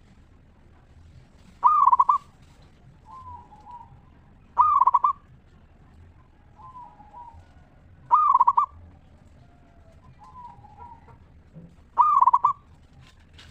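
Zebra dove (perkutut) cooing: four loud, rolling trilled coos about three and a half seconds apart, with softer coos in between.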